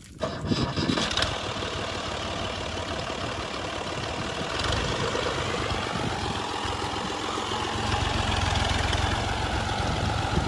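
Heavy diesel engine of farm machinery running steadily, growing louder about eight seconds in.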